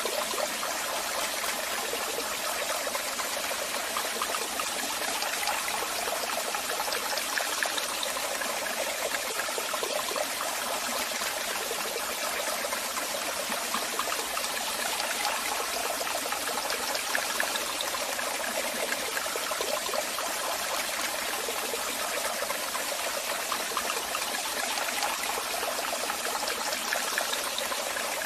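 Waterfall: water falling and splashing steadily, a continuous rushing hiss with little deep rumble.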